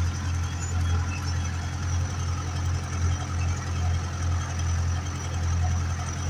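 Ursus 385 tractor's diesel engine running steadily while ploughing, a constant low hum.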